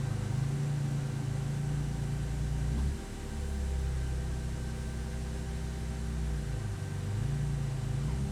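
Race car engine running at fairly low, steady revs, its note stepping down about three seconds in and dipping and rising again near the end.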